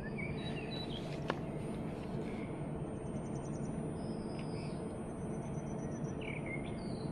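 Birds chirping faintly, with short calls and a couple of quick trills, over a steady low background rumble; a single click sounds about a second in.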